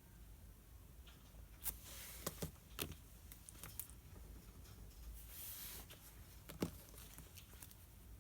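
Desk study sounds of pen and paper: a scattering of small sharp taps and clicks, with a brief paper rustle about five seconds in.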